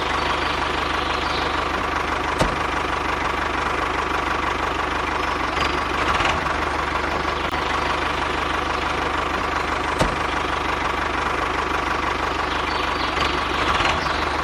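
An engine running steadily. Two sharp knocks stand out, one about two and a half seconds in and one about ten seconds in.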